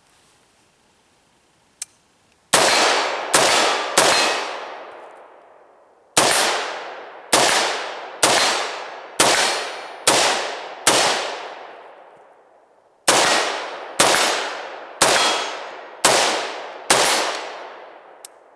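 Fourteen semi-automatic rifle shots from a 14.5-inch mid-length BCM AR-15 firing .223/5.56 ammunition. They come in three strings (three, then six, then five) at about one shot a second, each sharp crack trailing off over about a second. A faint click comes about two seconds in and another near the end.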